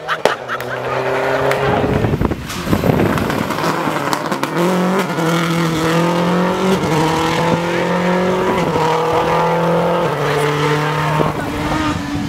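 Race car engine under hard acceleration, its pitch climbing and then dropping back with each upshift, several gear changes in a row.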